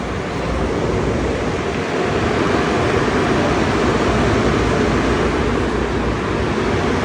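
Automatic car wash equipment running: a loud, steady rushing noise that builds a little in the first second.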